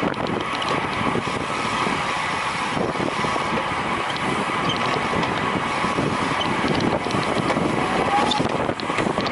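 Wind rushing over the microphone of a road racing bicycle at speed, with the running whir of the bike's chain and drivetrain and faint light clicking.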